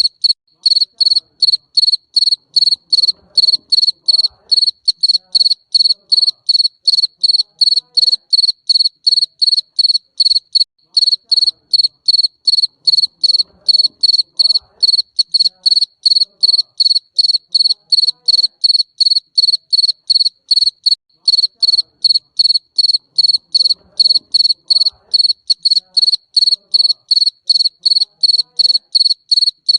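Garden cricket chirping steadily, short high chirps at an even rate of about three a second.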